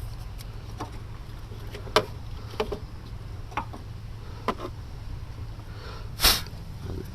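Scattered light clicks and knocks of hands and parts being handled around a car's battery tray, over a steady low hum. A short, louder rush of noise comes about six seconds in.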